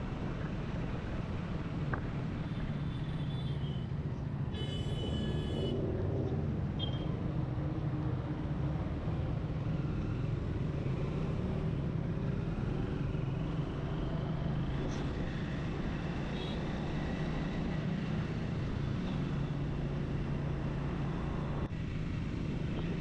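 Triumph Speed 400's single-cylinder engine running steadily while the motorcycle cruises along the road. A brief high-pitched tone sounds about five seconds in.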